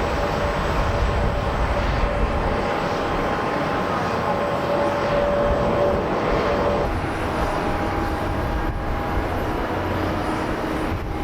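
Jet airliner engines on a landing approach: a steady whine of several engine tones over a heavy low rumble. About seven seconds in the sound shifts abruptly and one of the tones stops.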